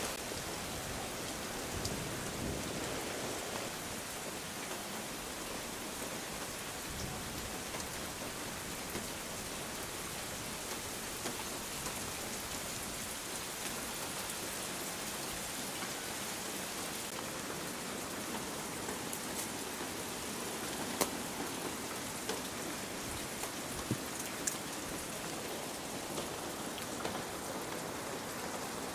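Steady rain falling, an even hiss with a few sharper ticks of drops in the second half.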